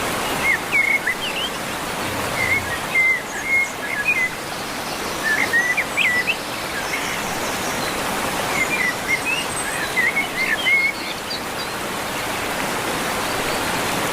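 A bird singing in short bursts of quick chirps, four phrases a few seconds apart, over a steady rushing noise like running water.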